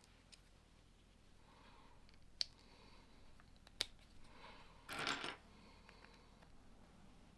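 Plastic Lego pieces being handled and pressed together: two sharp clicks, about two and a half and four seconds in, then a short rattle of pieces about five seconds in, with little else between.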